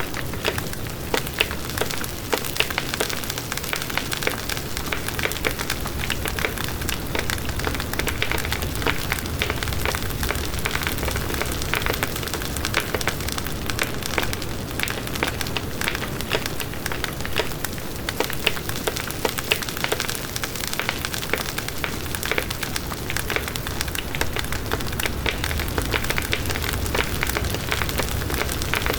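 Firewood burning in a fireplace: steady hissing with constant dense crackling and snapping pops.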